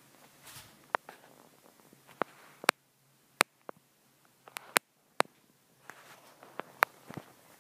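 Footsteps on a hard floor in an empty room: a dozen or so irregular sharp taps and clicks.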